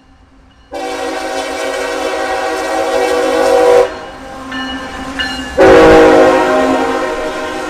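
Freight locomotive air horn sounding two long blasts, a multi-note chord: the first from about a second in for about three seconds, the second, louder one starting just before six seconds and held on.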